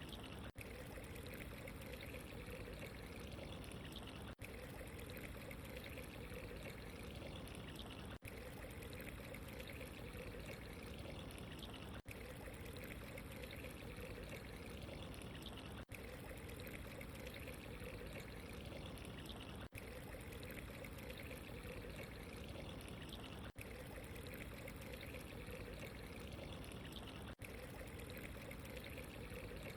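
Steady running, pouring water, one even stream of sound. It has a very brief dropout about every four seconds, the seam of a looped recording.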